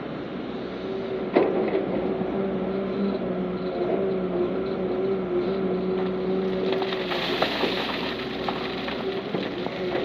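Heavy diesel earthmoving machinery running steadily with a low engine hum. There is a sharp knock about a second and a half in and a spell of louder clattering around seven seconds in.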